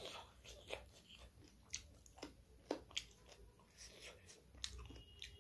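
Faint close-up eating sounds: chewing with lip smacks and scattered short, sharp clicks, from a person eating rice by hand from a steel plate.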